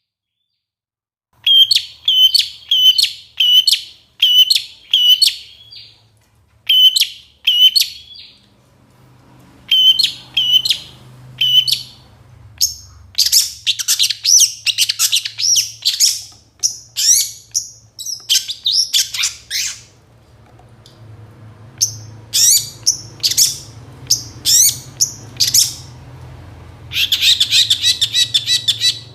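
Long-tailed shrike (cendet) singing loudly. A run of about a dozen repeated sharp notes starts after a short silence, then gives way to rapid, varied chirps and whistles, with dense, fast chattering near the end.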